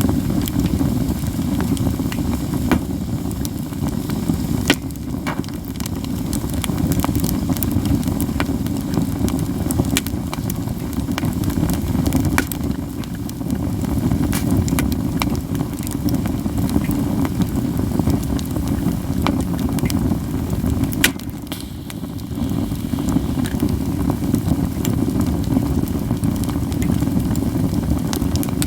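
Campfire of katsura wood crackling, with scattered sharp snapping pops over a steady low rumble.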